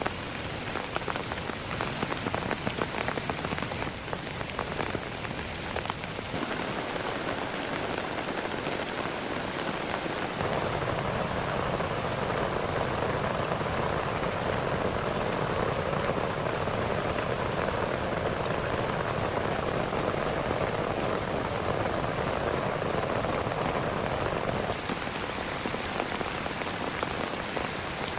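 Heavy rain falling and pattering on surfaces, a dense steady hiss. Its character changes abruptly about six seconds in, again about ten seconds in and once more near the end, as between separate clips.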